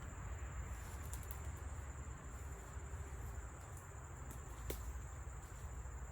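Faint, steady high-pitched insect trilling, over a constant low rumble, with a single sharp click a little before the end.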